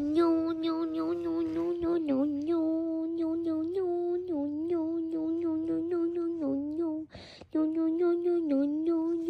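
A person's voice humming one steady, droning note, with small dips in pitch. It breaks off briefly about seven seconds in, then carries on.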